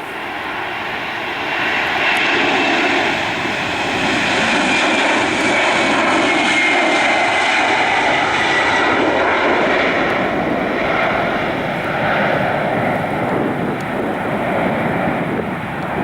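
Boeing 767-300ER's twin turbofan jet engines running loud as the airliner passes, a steady roar with a high whine that slides slowly down in pitch over several seconds.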